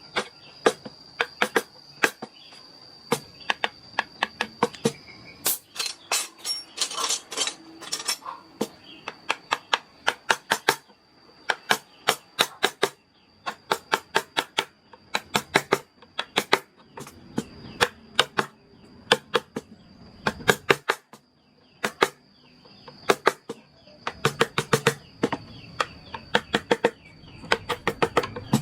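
Carving chisel driven into wood by a mallet: runs of quick, sharp taps, several a second, broken by short pauses. A steady high-pitched tone runs underneath.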